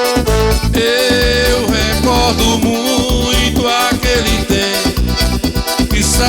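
Live forró band playing an instrumental passage: a lead melody line with sliding notes over a steady bass beat.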